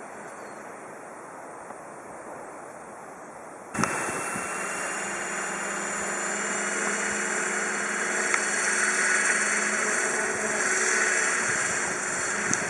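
Electric RC helicopter (Hirobo Shuttle) motor and rotor. A steady low hiss gives way suddenly, about four seconds in, to a steady whine made of several fixed tones, which grows gradually louder.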